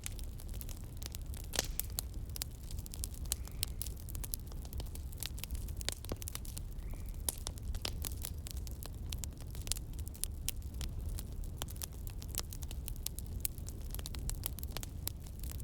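Wood fire crackling, with dense, irregular sharp pops and snaps over a steady low rumble.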